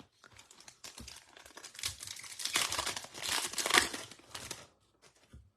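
Foil trading-card pack wrapper crinkling as it is torn open and handled, an irregular crackle loudest in the middle and stopping just before the end.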